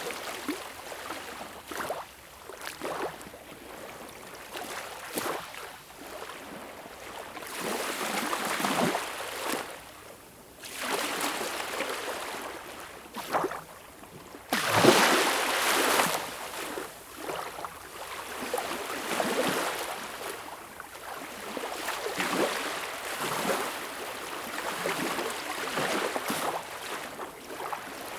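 Ocean waves surging and washing in a rise and fall of noise, with one louder wave breaking about halfway through.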